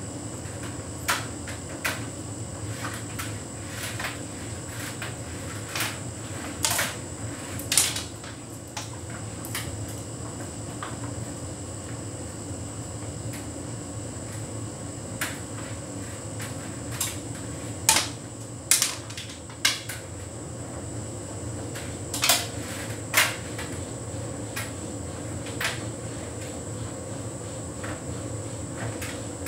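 Hotpoint heat pump tumble dryer running on its Synthetics cycle: a steady hum, with irregular light knocks and clicks every second or two, a few of them louder.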